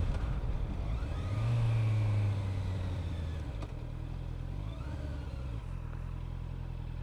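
Motorcycle engine running; it swells briefly about a second and a half in, then eases back to a steady, lower drone.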